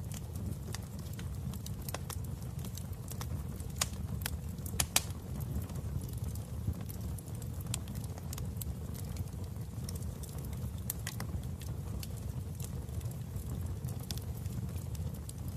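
Wood fire in a fireplace crackling: irregular pops and snaps over a steady low rumble of the burning fire, with two louder pops about four and five seconds in.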